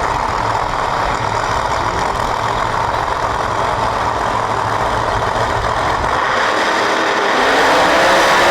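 Drag race car engines running steadily, loud and rough; near the end one engine rises in pitch and grows louder.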